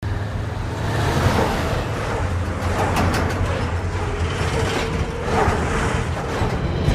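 Heavy tanker truck's engine running with a steady low rumble, with a few brief whooshes of passing vehicles about one, three and five seconds in.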